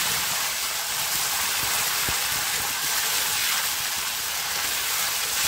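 Chopped tomatoes and fried onions sizzling in hot mustard oil in a metal kadai as a steel ladle stirs them, a steady hiss with a few light taps and scrapes of the ladle on the pan.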